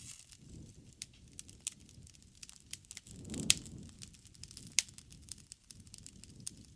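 Wood fire crackling and popping: frequent sharp snaps over the low rumble of the flames, with one loud pop and a swell of flame rumble about halfway through.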